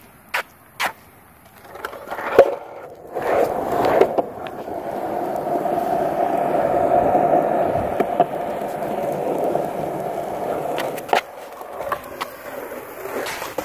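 Longboard wheels rolling over pavement: the rumble builds from about two seconds in, holds steady, then fades out around eleven seconds. A few sharp clicks come in the first second and again near the end.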